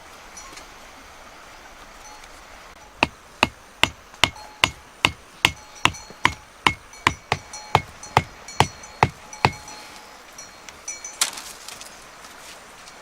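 A run of about seventeen sharp, evenly paced knocks of a hand tool striking, roughly two and a half a second, lasting about six seconds, followed by a few scattered knocks and rustles near the end.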